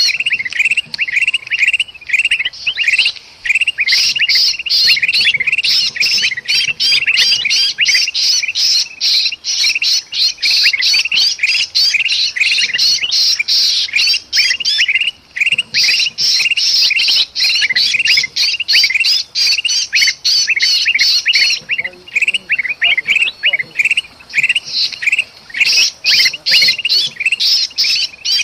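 Bulbuls (kutilang) chattering nonstop in rapid, harsh alarm chirps, mixed with the distress calls of a bulbul caught in a trap. This is the agitated alarm chorus used as a bird lure. The chatter thins briefly about 22 seconds in.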